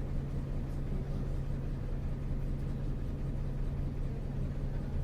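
Isuzu U-LV224N bus's 6QB2 six-cylinder diesel engine running at a steady pitch, heard from inside the cabin over a low rumble of road noise.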